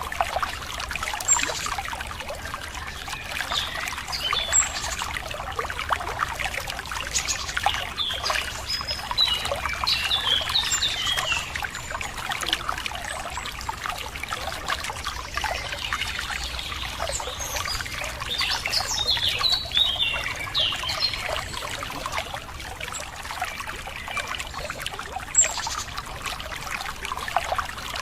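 Running water trickling steadily over rocks, with songbirds chirping in short bursts, busiest about a third of the way in and again past the middle.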